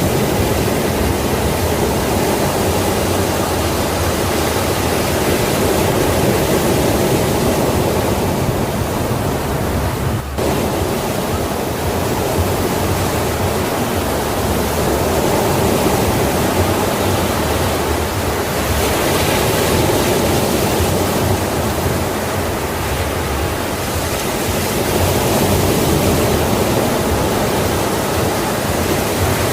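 Ocean waves on a shore: a continuous rush of surf that swells and eases slowly, with a momentary dropout about ten seconds in.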